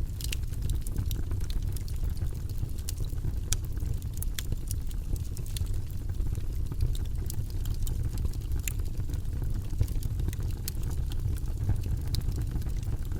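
Campfire crackling: irregular sharp snaps and pops over a steady low rumble of burning.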